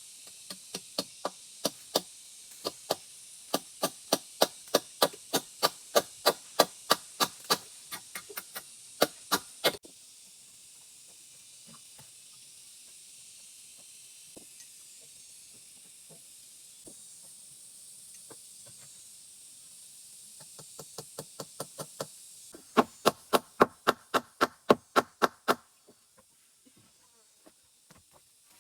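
Repeated sharp knocks of a hand tool striking, about two to three a second, for roughly ten seconds; they stop, leaving a faint steady high hiss, and start again a little past the twenty-second mark before stopping near the end.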